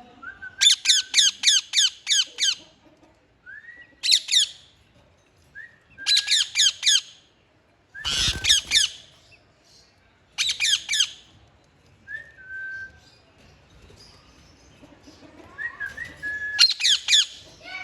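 Green pet parrot calling in loud bursts of rapid, repeated harsh squawks, each burst a quick run of several falling notes, with short single whistles in the pauses between bursts. One burst near the middle comes with a low rumble.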